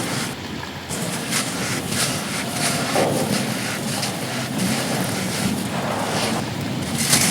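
Steady wind buffeting the microphone along with rain, and scattered short crunches of dry sand clumps crumbling.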